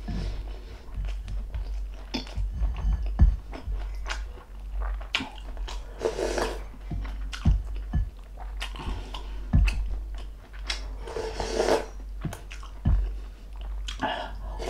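A person eating close to the microphone: chewing and biting with sharp crunches and wet mouth sounds, between spoonfuls of mung bean soup from a wooden spoon, alongside crispy pork knuckle.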